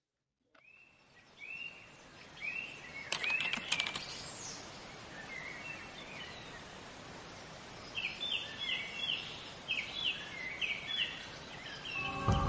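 Faint outdoor nature ambience: short bird chirps over a soft hiss, with a few sharp clicks about three seconds in and a quicker run of chirps from about eight seconds in.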